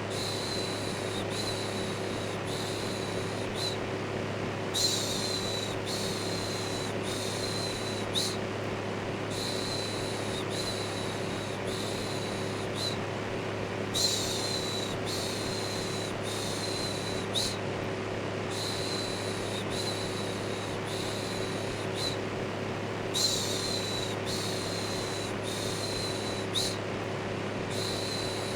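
Steady electric fan running, with a constant low hum, overlaid by a looped human "shhh" shushing: short hissing shushes repeating in an even rhythm, about one a second, with a slightly stronger shush every few seconds, used as white noise to calm a baby to sleep.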